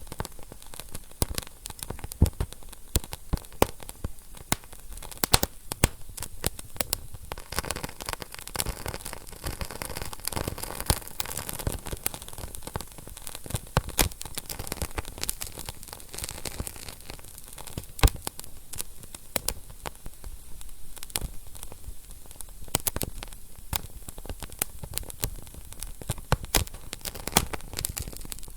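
Wood fire burning in a fireplace, with a steady hiss and frequent irregular crackles and pops, one sharper pop about two-thirds of the way through.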